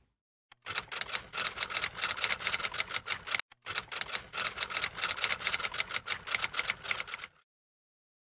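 Typewriter sound effect: a fast run of key strikes with a short break about halfway, stopping a second or so before the end.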